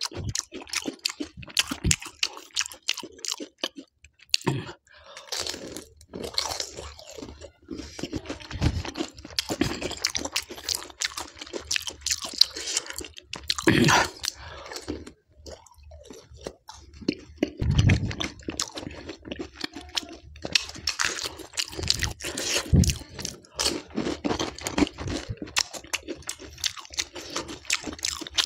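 Close-miked eating of pani puri with green chillies: crisp puri shells crackling and crunching between the teeth, with wet chewing, the crunches coming again and again, a few of them louder.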